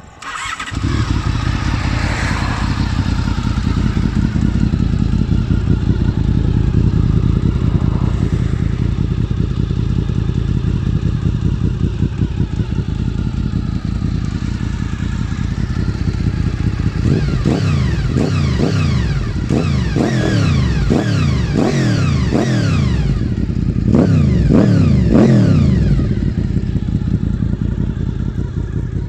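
Motorcycle engine running through an aftermarket exhaust. It comes in suddenly about a second in and idles steadily. Past the middle it is given a run of quick throttle blips, each rising and falling, before settling back to idle.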